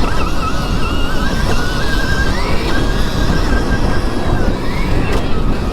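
Stark Varg electric motocross bike's motor whining while riding, the pitch climbing and dipping with the throttle, over heavy wind and tyre rumble.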